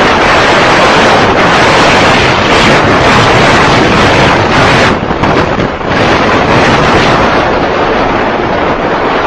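Loud wind buffeting the microphone of a moving vehicle, a dense steady roar that dips briefly about five seconds in.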